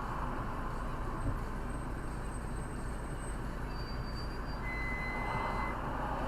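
Steady road and engine noise of a car, heard from inside the cabin while driving, with a faint thin high tone for about a second near the end.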